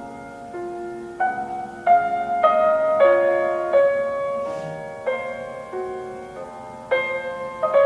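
Solo piano playing a slow, gentle classical melody over held chords, each note struck and left to ring.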